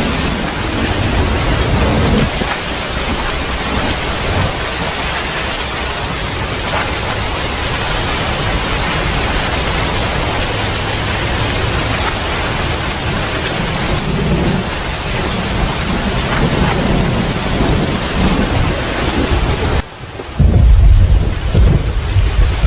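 Heavy rain falling steadily with low rolling thunder rumbling now and then. About twenty seconds in the sound briefly dips, then a louder, deep rumble of thunder begins.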